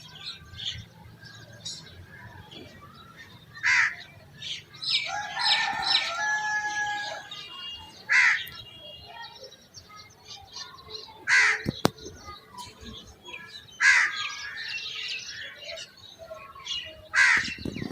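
Birds calling: five loud, short, shrill calls a few seconds apart, a longer drawn-out call about five seconds in, and small chirps in between.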